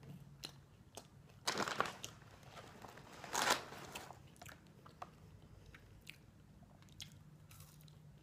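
Close-up eating sounds: a person biting and chewing crinkle-cut fries, with two louder crunches, about one and a half and three and a half seconds in, and small wet mouth clicks between.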